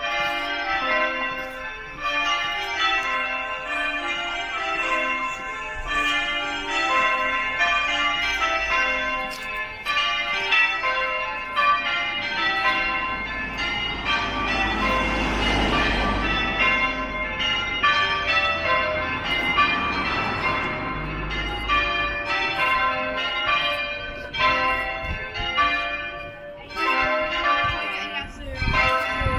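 Church bells ringing changes: a steady run of bell strokes following one another in rapid rotation, with a brief swell of rumbling noise in the middle.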